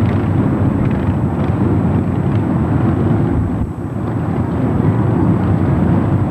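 Many motorcycle engines running together in a steady, loud rumble as a mass of bikes rides past, with a brief dip a little past halfway.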